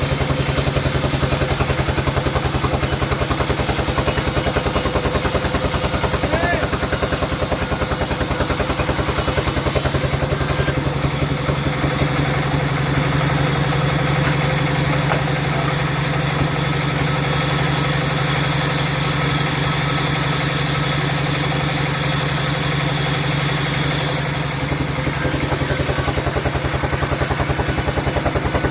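Sawmill machinery running steadily with a fast, engine-like pulsing drone. Its tone shifts slightly about eleven seconds in and again around twenty-four seconds.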